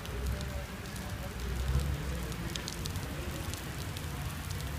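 Rain falling, with scattered drops ticking and pattering sharply on a nearby surface over a steady hiss and a low rumble.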